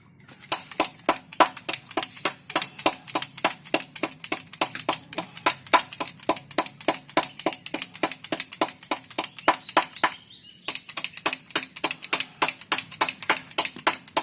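Rapid series of sharp taps or clicks, about four to five a second, with a brief pause about ten seconds in, over a steady thin high tone.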